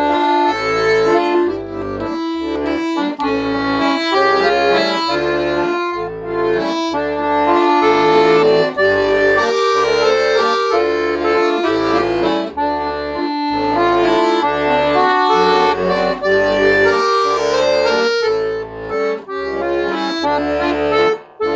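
Accordion music: a lively tune over a steady rhythm of bass notes and chords, fading out at the very end.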